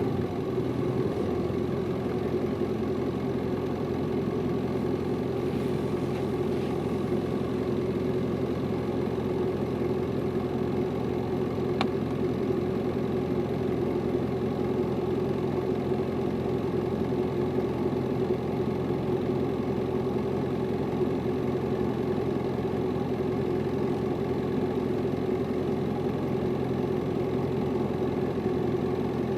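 Hino Liesse small bus's diesel engine running steadily, heard from inside the passenger cabin, with no marked rise or fall in revs.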